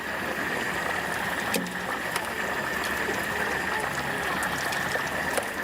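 Stinky tofu deep-frying in hot oil: a steady sizzle with a constant high hiss and a few light clicks.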